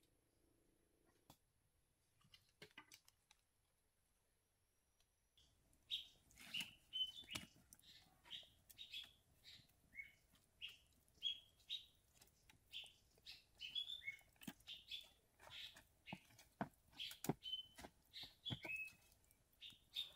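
A bird chirping over and over, about two short high chirps a second, starting about five seconds in, with the occasional sharp crackle of a wood fire.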